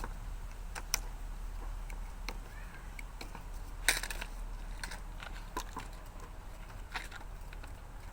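Scattered light clicks and knocks of small hard objects being handled, with one louder clack about four seconds in, over a steady low hum.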